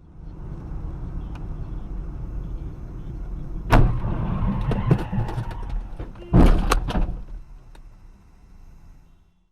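Steady rumble of a moving car, then a loud crash impact about four seconds in with clattering after it, and a second loud impact a couple of seconds later; the rumble then dies down.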